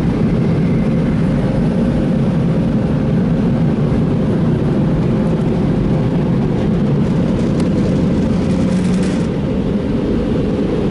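Stationary car-wash blower dryers running at full blast over the car: a steady, loud, low roar of rushing air, easing slightly near the end.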